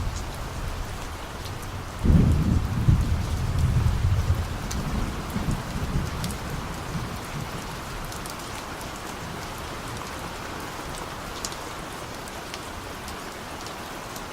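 Steady rain falling, with scattered drops ticking. About two seconds in, distant thunder starts with a sudden deep rumble that rolls for a few seconds and fades away.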